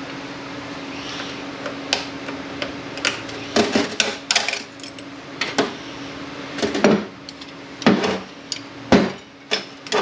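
Clutch drums and other metal parts of a Kia A6LF2 six-speed automatic transmission clanking and knocking as they are pulled apart and set down, in a series of sharp ringing metal clanks, most of them in the second half.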